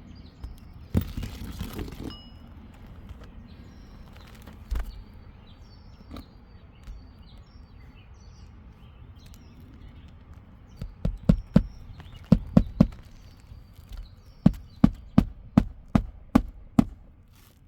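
A rustling scrape about a second in, then a run of about a dozen sharp knocks, roughly two a second, on an asphalt shingle roof, with birds chirping faintly.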